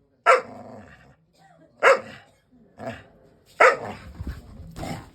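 A dog barking: five sharp barks about a second apart, with a rougher, noisier tail after the later ones.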